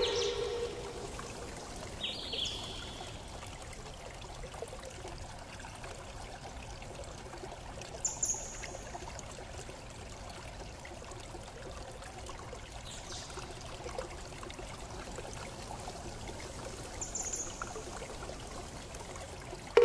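Steady running water like a flowing stream, with a few brief high-pitched chirps scattered through it.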